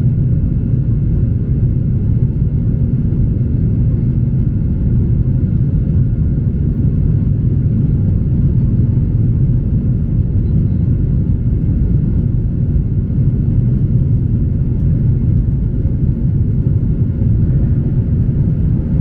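Steady low roar of a Boeing 737-800 in flight heard inside the cabin: CFM56 jet engines and airflow noise, with a faint steady whine above it.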